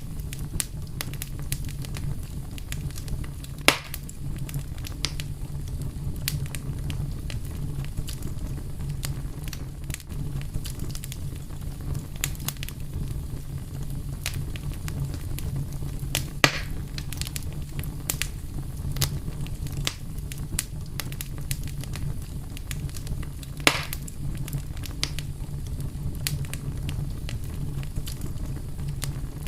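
Fire crackling over a steady low rumble, with many small snaps and three louder pops spaced through the stretch.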